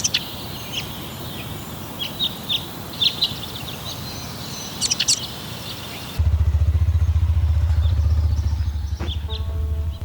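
Small birds chirping in short, scattered calls over a steady background hiss. About six seconds in, a motorcycle engine cuts in with a loud, steady low throb.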